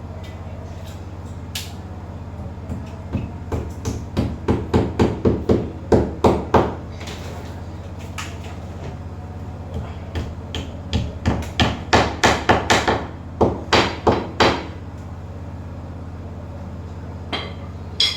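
Repeated hammer blows in two runs of quick, even strikes, about three a second, the first run growing louder, over a steady low hum; one more knock near the end.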